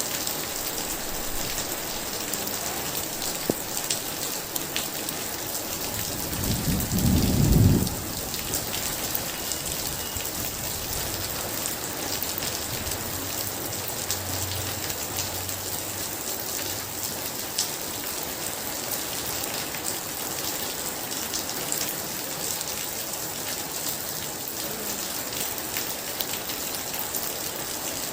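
Heavy rain falling steadily, with a short, loud clap of thunder about seven seconds in and a fainter low rumble of thunder a few seconds later.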